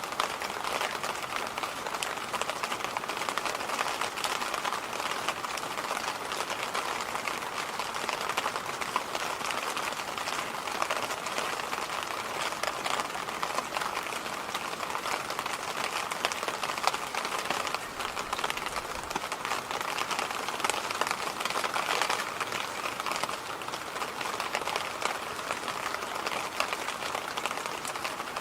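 Electric fan running steadily: an even whooshing air noise with a slight fine crackle, unchanging throughout.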